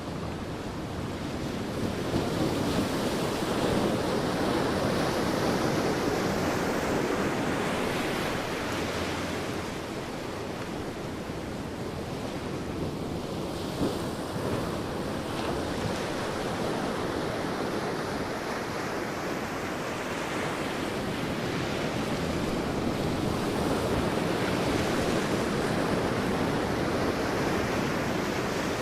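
Sea waves breaking and washing up a beach, a continuous surf that swells and eases slowly, with some wind.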